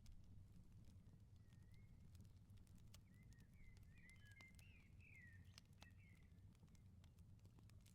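Faint wood fire crackling in a firepit, with scattered sharp pops over a low steady rumble. Small birds chirp several times through the middle.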